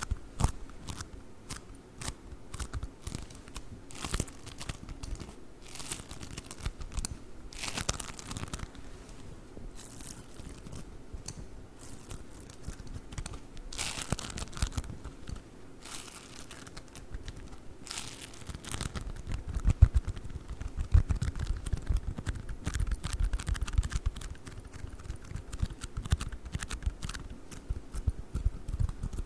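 Play foam, the bead-filled modelling foam, squeezed and pulled apart close to the microphone, giving a dense stream of sticky crackles and pops. About two-thirds of the way in, deeper thuds of pressing join the crackling.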